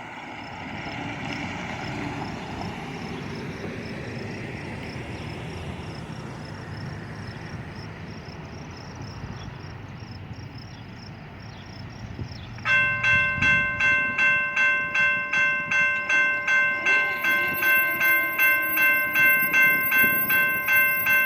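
A low steady rumble, then about two-thirds of the way in a railroad grade crossing bell starts suddenly and rings rapidly, about three strokes a second. It is the crossing warning for an approaching train.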